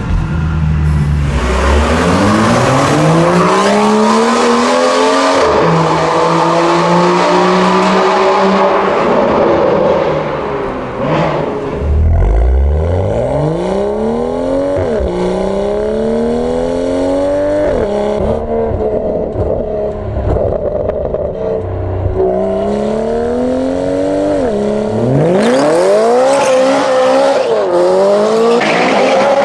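BMW M2's turbocharged straight-six through an Akrapovič exhaust, accelerating hard several times, the engine note climbing steadily and dropping sharply at each upshift before climbing again.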